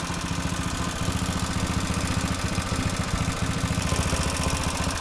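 The homemade mini bike's small engine idling steadily, with a fast, even pulsing.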